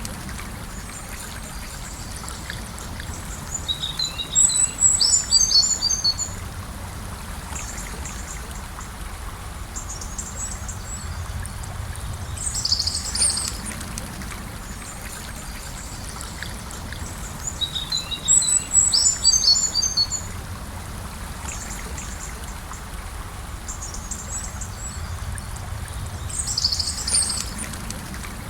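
Gentle river water flowing steadily. Over it a small bird sings bursts of high chirps several times, in a pattern that repeats about every 14 seconds.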